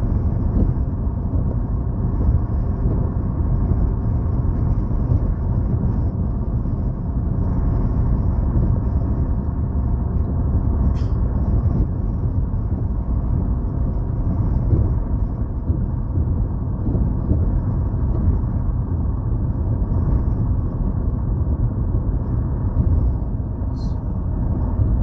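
Steady low rumble of road and engine noise inside a moving car's cabin, with a couple of brief clicks.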